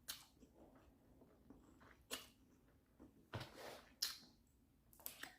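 Quiet, intermittent mouth sounds of someone eating instant noodles: about five short, wet chewing smacks with near silence between them.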